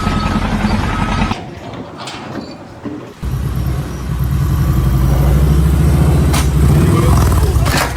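Heavy vehicle engine running with a steady low rumble. It drops away for about two seconds starting just over a second in, then comes back loud.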